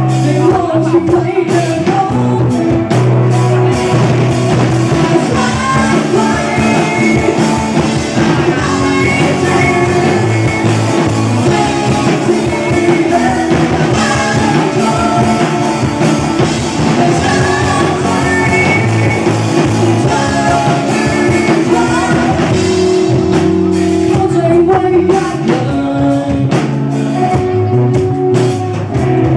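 A rock band playing a song live, with a singer over guitar and drums.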